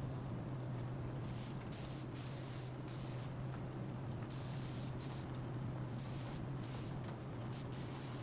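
Spray gun hissing in short on-off bursts, about ten of them, as it applies water-based clear lacquer, over a steady low hum.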